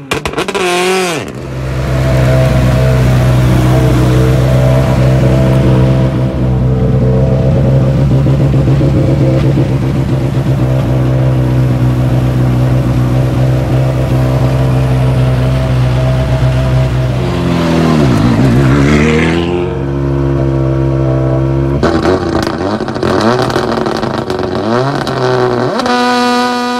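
Rally car engines at a start line: a pitch dropping off a rev just after the start, then a long steady idle, a quick rev that dips and climbs again about eighteen seconds in, and another car's engine idling with a wavering pitch near the end.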